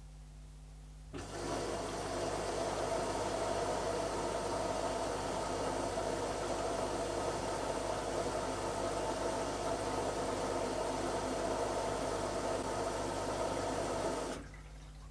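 Zanussi ZKN7120L washing machine running: a steady mechanical whirr that starts abruptly about a second in and cuts off abruptly near the end.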